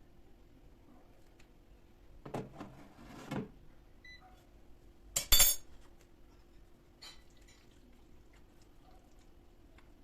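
Kitchenware being handled: a scrape or shuffle, then a loud ringing clink of glass or crockery about five seconds in, followed by a few lighter clinks. A faint steady hum sits underneath.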